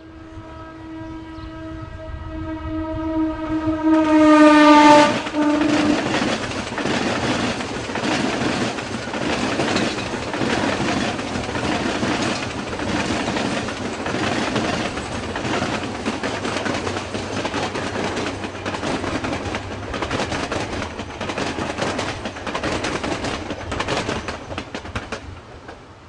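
Mumbai suburban electric local train sounding one long horn blast that is loudest and drops in pitch about five seconds in as it passes. Its wheels then clatter steadily over the rail joints for about twenty seconds, fading away near the end.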